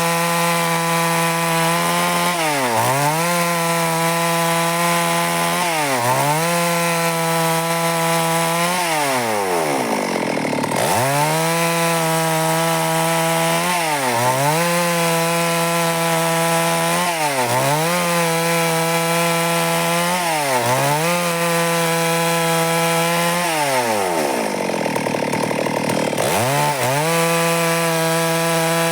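Stihl MS 382 two-stroke chainsaw running at high revs while sawing wood into boards, its pitch dipping briefly about every three seconds and twice sagging lower for a couple of seconds before rising again.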